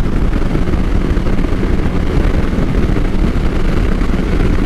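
Motorcycle running steadily while riding, with a constant low engine drone under wind and road rush.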